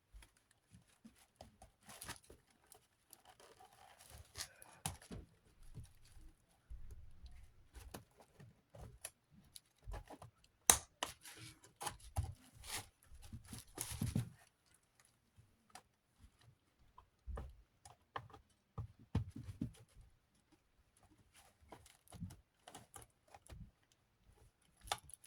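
Handling noises from a Galaxy desk fan's switch being fitted back in by hand: scattered clicks, taps and rubbing, with one sharp click about eleven seconds in.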